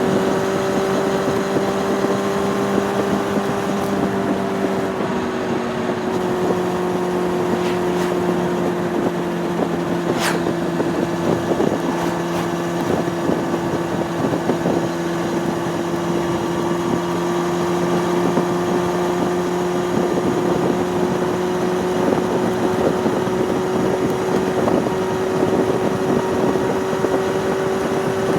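Honda CB600F Hornet's inline-four engine running at a steady cruising speed, its note almost constant, easing very slightly in pitch and then rising a little near the end. Wind buffets the microphone throughout.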